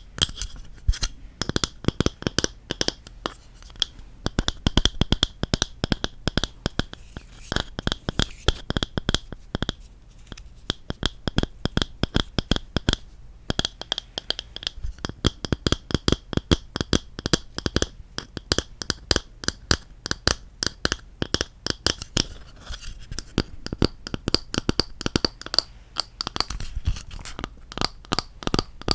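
Quick, irregular tapping on wooden objects: a dense run of sharp clicks, several a second, with brief pauses.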